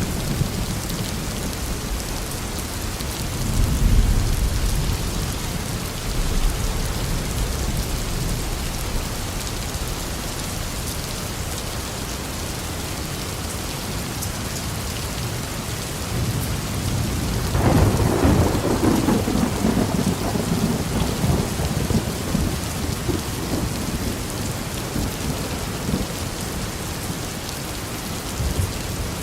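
Steady rain falling, with rolling thunder: a low rumble about four seconds in and a louder, longer peal from about two-thirds of the way through.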